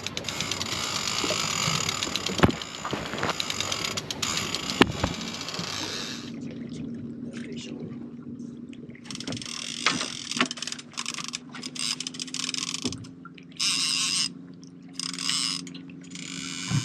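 Fishing reel's clicker ratcheting rapidly as a hooked striped bass pulls line off the reel, at first continuously, then in shorter bursts after a pause, with a couple of knocks from the rod and boat being handled.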